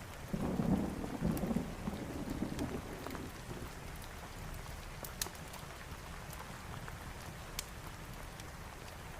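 Steady rain falling, with a low roll of thunder that swells about half a second in and fades over the next three seconds. Sharp crackles from a fireplace pop now and then.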